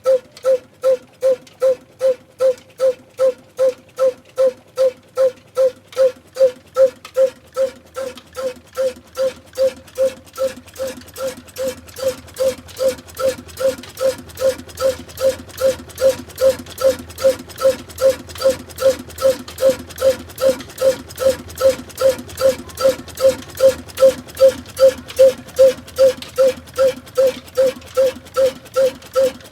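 Old single-cylinder desi diesel oil engine running after starting. Its exhaust fires in even, pitched beats of about two and a half to three a second. The beats soften for a few seconds about a third of the way in, then come back stronger and slightly quicker.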